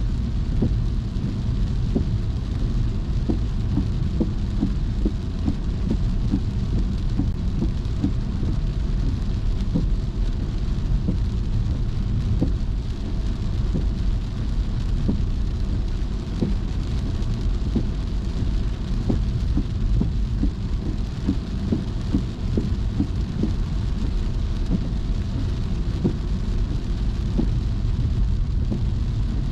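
Rain falling on a moving car, scattered drops ticking over a steady low rumble of the car driving on a wet road.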